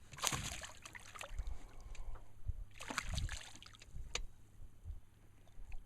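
A hooked largemouth bass splashing at the surface beside the boat as it is brought in: two rough bursts of splashing about three seconds apart, then a short sharp tap.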